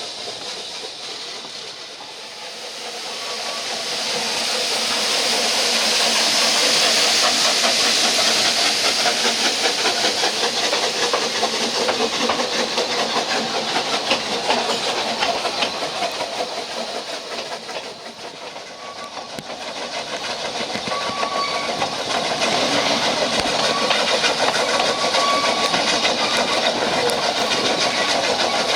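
Steam-hauled narrow-gauge train running along the track, heard from a carriage window: a steady rushing hiss with fast rail clatter. It dips twice and swells back up each time.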